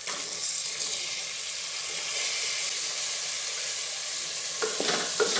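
Diced beetroot frying in hot oil and onion-tomato masala in a pressure cooker: a steady sizzle that starts sharply as the beetroot goes in. Near the end a spoon stirs it, clicking and scraping against the pot a few times.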